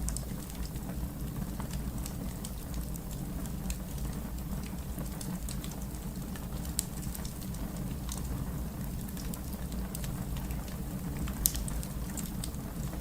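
Fire crackling: scattered sharp pops and snaps over a steady low rumble, with the loudest pop near the end.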